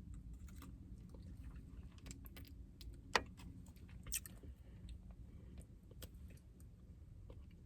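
Faint low room hum with scattered small clicks and taps, the sharpest about three seconds in and another about a second later.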